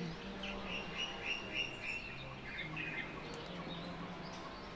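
A small bird chirping: a quick run of short repeated high notes starting about half a second in, then scattered single chirps, over a steady low hum.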